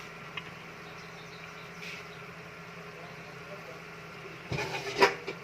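A steady low hum, then a brief clatter of cookware, a few sharp knocks near the end with one loud one.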